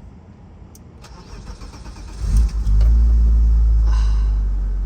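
A BMW E34's engine is cranked by the starter and catches about two seconds in, then settles into a loud, steady idle.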